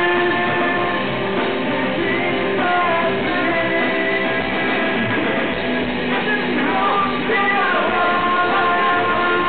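Rock band playing live: electric guitars with held and bending notes over a steady drum beat.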